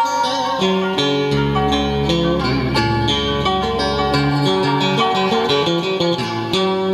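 Instrumental music on plucked strings: a guitar picking a melody with bent, wavering notes over other plucked accompaniment, with a low bass note held for a few seconds near the middle.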